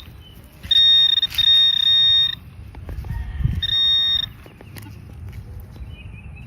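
A handheld metal-detecting pinpointer buzzing with a steady, high alarm-like tone as it finds a small metal target in a clod of dirt. It sounds for about a second and a half early on, with a brief break, and again briefly past the middle.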